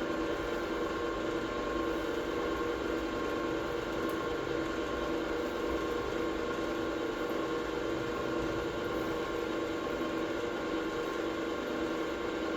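Metalworking machine tool running steadily, its motor and gear drive giving a constant hum with a steady whine.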